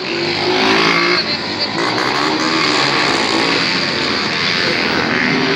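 Motorcycle engine held at high revs during a wheelie pass, its pitch wavering up and down slightly.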